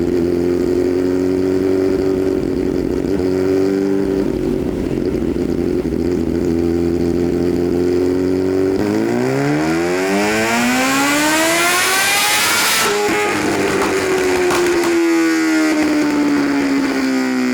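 Kawasaki H2's supercharged inline-four engine on a dyno. It runs at a steady speed, then about nine seconds in makes a full-throttle pull with the pitch rising for about four seconds. The pull cuts off sharply and the engine winds down with a falling pitch.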